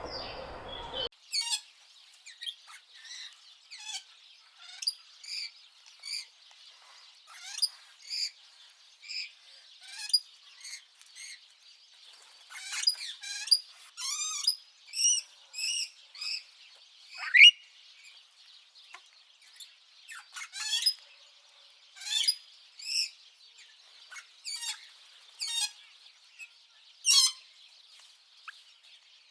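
Birds chirping and singing: a steady run of short, high chirps and trills, some sweeping quickly in pitch, over a faint steady high hiss.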